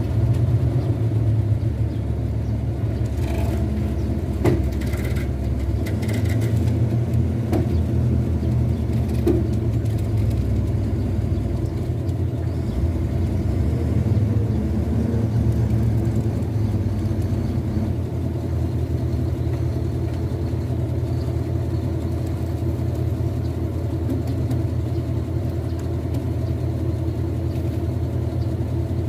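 A heavy truck's diesel engine running at a steady speed, a continuous low rumble with a few faint clicks over it.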